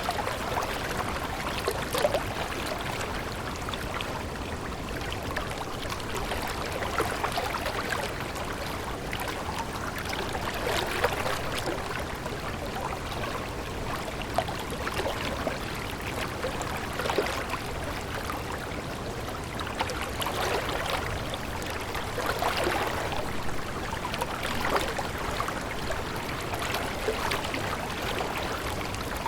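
Stream water running and trickling steadily, with small irregular splashes.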